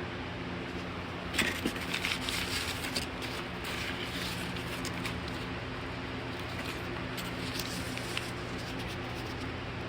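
1999 Bahama Classic Series 52-inch ceiling fan running, a steady airy whir over a low motor hum. From about one and a half seconds in, a flurry of light clicks and rattles lasts a couple of seconds, with a few more near the end.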